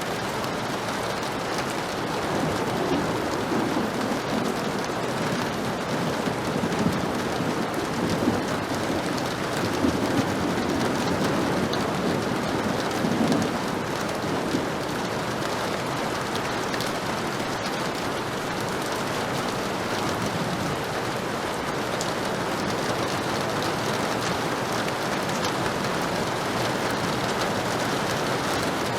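Heavy rain falling steadily. Low, rolling thunder rumbles in and out from a couple of seconds in until about halfway, then only the rain remains.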